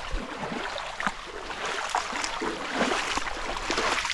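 Rushing water of a stream or waterfall in a canyon, a steady hiss, with scattered small clicks and knocks.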